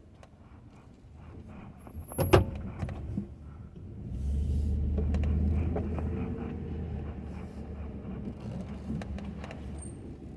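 Ford F-250 pickup running with a steady low engine rumble that swells about four seconds in and slowly eases off. A single sharp clunk comes just over two seconds in.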